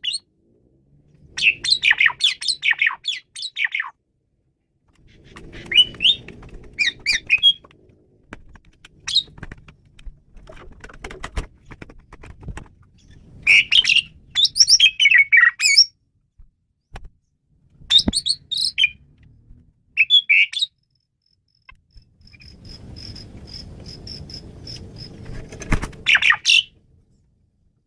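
Asian pied starling (jalak suren) singing: bursts of fast, chattering, squeaky phrases of whistled and sweeping notes, separated by short pauses. Near the end comes a rapid run of even, high-pitched ticks.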